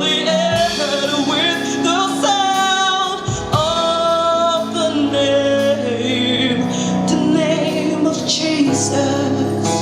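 Women singing a gospel worship song, holding long, wavering notes over instrumental accompaniment.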